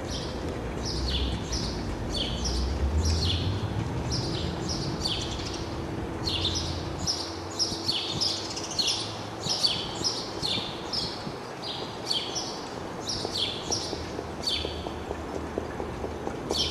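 Small birds chirping over and over, short falling chirps about twice a second. Near the end, the hoofbeats of an approaching trotting horse start to come through.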